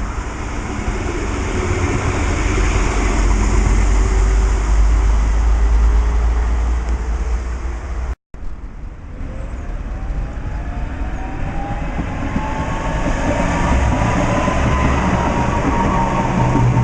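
A tram running on its rails with a deep rumble. About eight seconds in the sound cuts out for a moment, then a tram's traction motors whine, rising steadily in pitch as it gathers speed.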